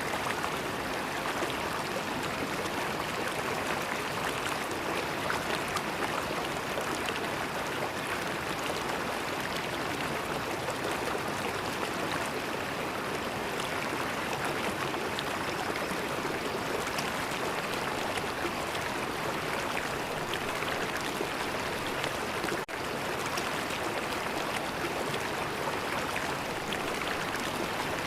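River water flowing, a steady rush with a brief dropout near the end.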